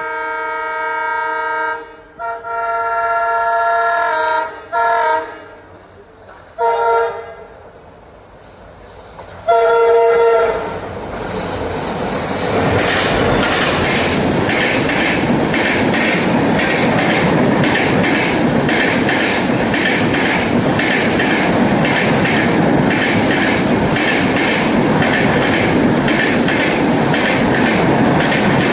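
An EMD WDP4-family diesel locomotive sounds its multi-tone horn in two long blasts and then three short ones. About ten seconds in, the passenger train arrives and passes close by, its wheels clattering steadily over the rail joints with a loud rushing noise.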